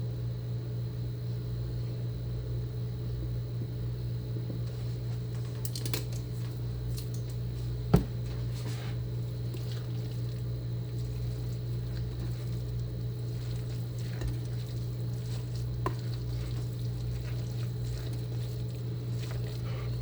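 Chicken salad being mixed in a bowl: faint squishing and scraping, with a spoon knocking sharply against the bowl once about eight seconds in and a couple of lighter taps. A steady low hum runs underneath.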